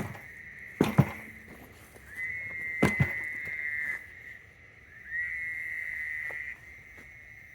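A portable generator being kicked a few times, four knocks in the first three seconds, to scare out anything hiding near its pull-start before it is started. A high steady tone that swells twice runs underneath.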